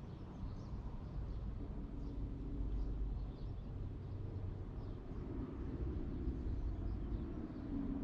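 Small birds chirping faintly in many short calls over a steady low rumble, which grows a little louder near the end.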